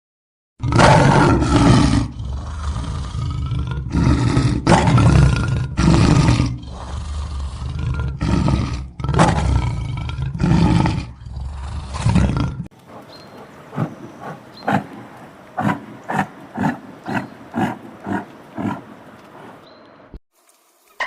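A large animal roaring over and over, deep and loud, for about twelve seconds; then a quieter run of sharp knocks, roughly one or two a second.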